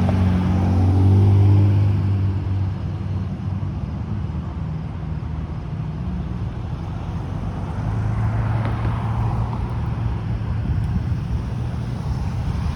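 Motor vehicle engines and road traffic running steadily, with a low hum that is strongest in the first couple of seconds and swells again about eight seconds in as a vehicle passes.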